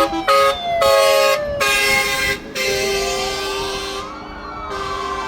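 Several fire engine sirens wailing at once, their pitches slowly rising and falling across each other. Short, loud horn blasts cut in and out over them in the first half.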